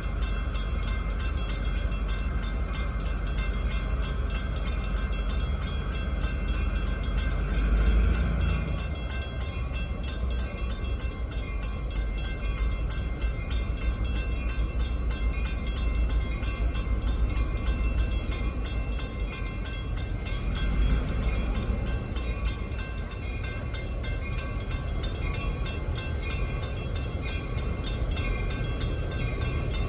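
New York and Atlantic Railway freight train rolling past, a steady rumble of locomotive and railcars that swells about eight seconds in.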